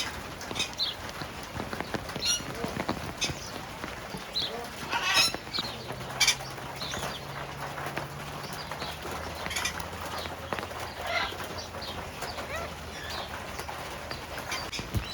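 Parrots squawking and calling, many short scattered calls with a couple of louder squawks about five and six seconds in.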